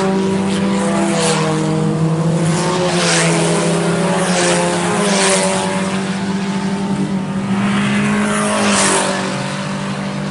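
IMCA Sport Compact race cars' four-cylinder engines running hard around a dirt oval on the final lap. The engine note holds steady with small rises and falls in pitch.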